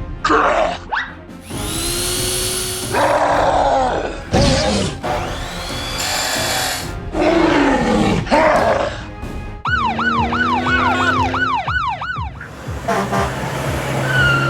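Background music with cartoon sound effects: a string of short effects with sliding pitch, then, about ten seconds in, a siren wailing in quick up-and-down sweeps for about two seconds.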